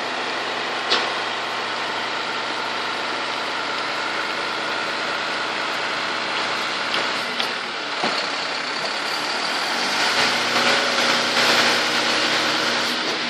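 Garbage truck engine running steadily, with a sharp click about a second in and a couple of knocks later; it grows louder and noisier for the last few seconds.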